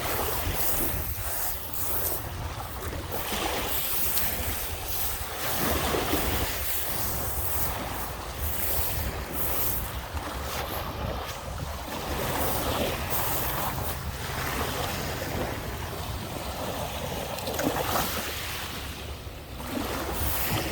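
Lake Michigan waves washing onto a sandy shore, the wash rising and falling every few seconds, with wind buffeting the microphone as a steady low rumble.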